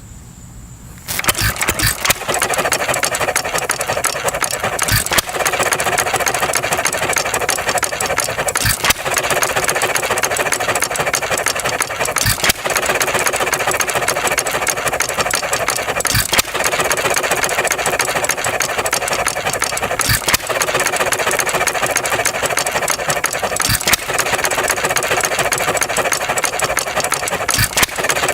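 Pre-1920s 1½ hp Ideal hit-and-miss engine running: a steady mechanical clatter with a sharp firing stroke about every four seconds, coasting on its flywheels between fires. It starts suddenly about a second in, after crickets; the engine is running well.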